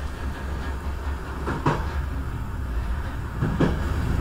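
Train running on the track with a steady low rumble, its wheels clicking over rail joints twice, about two seconds apart, each a quick double click.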